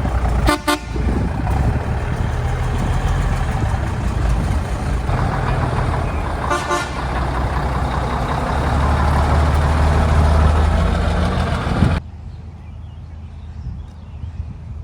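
A large truck engine running loudly and steadily, with short horn toots about half a second in and again about six and a half seconds in. About twelve seconds in it cuts off suddenly to much quieter outdoor background.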